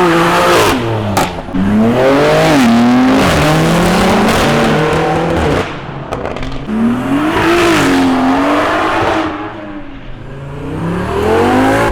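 An Audi's engine revved hard several times, its pitch climbing and falling again and again, with a loud exhaust rasp at each peak. Its sound is likened to a Lamborghini Huracan.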